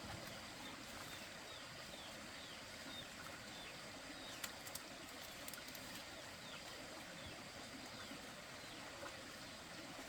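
Birds chirping: short falling peeps repeat every few tenths of a second over a steady hiss, with a couple of sharp clicks about halfway.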